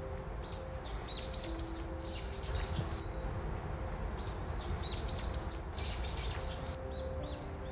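Small songbirds chirping and twittering in two busy bursts a few seconds apart, with a few thin whistled notes between, over a steady low background rumble.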